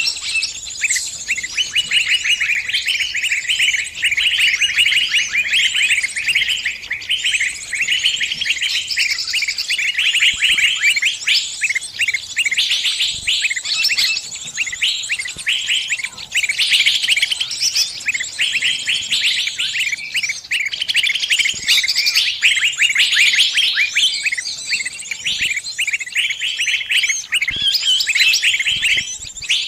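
Small bird giving rapid, unbroken high chirps: the distress call of a trapped bird calling others of its kind for help.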